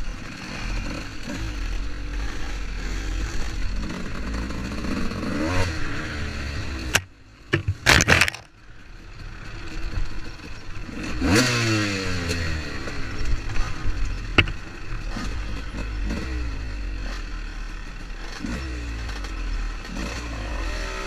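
Dirt bike engine running while ridden, its revs rising and falling over a deep rumble, with clatter and scraping. About seven seconds in the sound drops away for a second or so with a few sharp clicks, then a hard rev rises and falls off.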